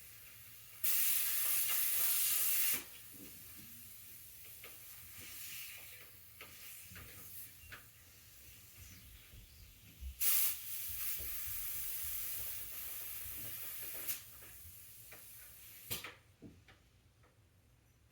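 Two bursts of steady hissing: the first, about two seconds long, starts about a second in; the second, about four seconds long, starts about ten seconds in. Light knocks and clicks come between them.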